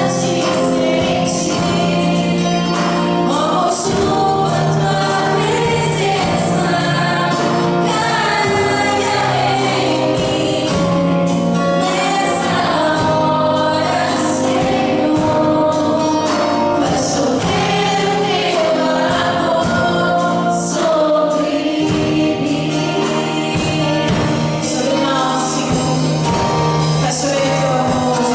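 Live worship singing: a group of voices sings a gospel song with a band, bass and percussion.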